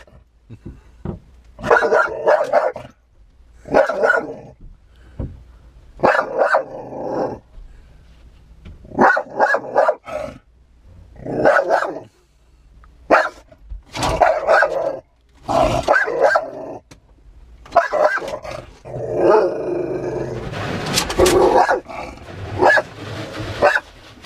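A dog barking and growling at the truck-wash brush and water spray on the windshield, in repeated short bursts every second or two, with one longer unbroken stretch near the end.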